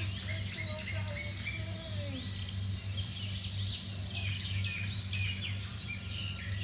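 Many small birds chirping and twittering continuously, with quick high chirps overlapping, over a steady low hum.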